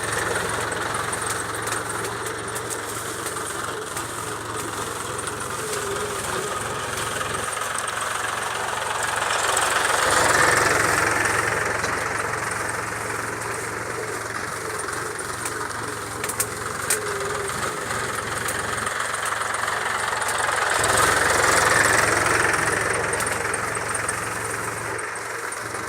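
Mahindra tractor's diesel engine running steadily, swelling louder twice, around ten seconds in and again around twenty-two seconds.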